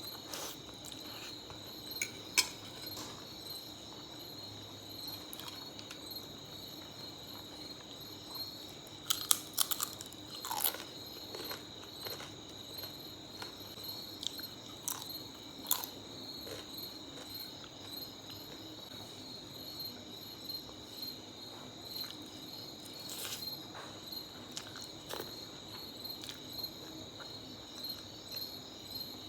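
Close-up chewing and mouth noises of someone eating spicy tomato spaghetti, with scattered short sharp clicks, a cluster of them about nine to eleven seconds in. A steady, high-pitched pulsing insect trill runs underneath.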